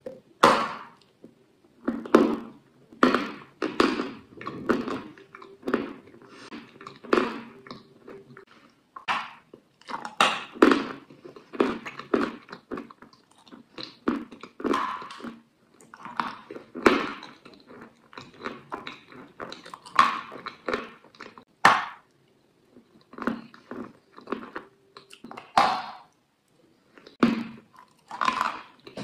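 Close-up mouth sounds of a person biting and chewing crunchy food: crisp crunches that come irregularly, about one or two a second, with short pauses between bites.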